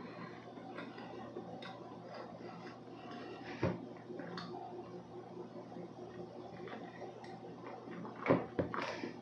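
A person chewing soft blueberry roll cake with the mouth closed: quiet wet mouth sounds and small clicks, with one louder knock about a third of the way in and a few louder sharp sounds near the end.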